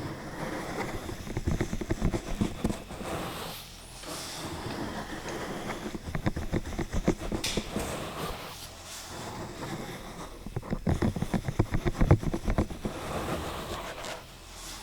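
Close-miked ASMR trigger sounds: dense, rapid crackling and tapping clicks against the microphone, coming in spells of a couple of seconds with short quieter gaps.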